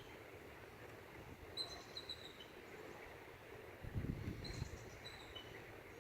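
A bird calling twice: short runs of high chirps that step slightly down in pitch. A brief low rumble comes about four seconds in.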